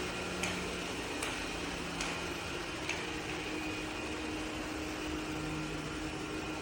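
Steady background hiss with a faint low hum and a few faint light clicks.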